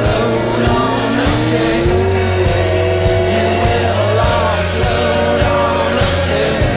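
Pontiac G8 sedan accelerating away, its engine rising in pitch over the first couple of seconds, with rock music playing over it.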